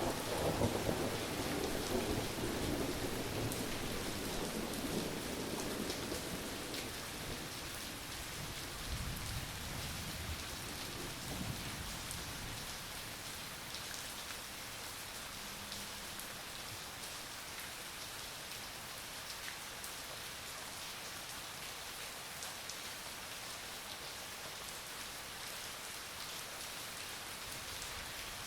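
Steady rain falling, with a rumble of thunder in the first several seconds that dies away, and a fainter one a little later.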